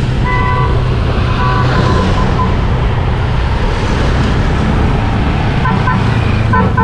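Motorcycle running at road speed, its engine a steady low drone under a rush of wind and road noise.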